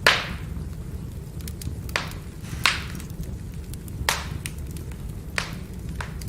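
Firewood burning: a steady low rumble of the fire with sharp crackling pops, about six in all, the loudest right at the start.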